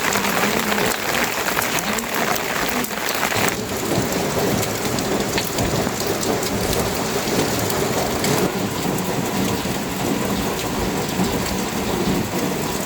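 Steady rain falling, a dense hiss that shifts in character about three and a half seconds in and again past the middle.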